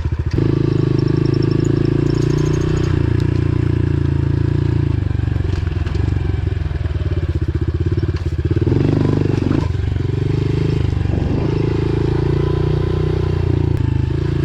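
Pit bike engine running as the bike is ridden along a trail, its pitch dipping and rising a little with the throttle about two-thirds of the way through.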